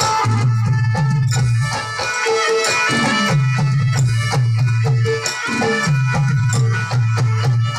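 Live garba folk music: a steady, evenly repeating drum rhythm under a sustained instrumental melody.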